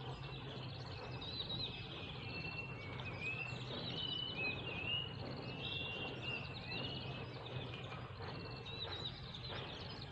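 Several small birds chirping and twittering, many short high calls overlapping, over a steady low hum.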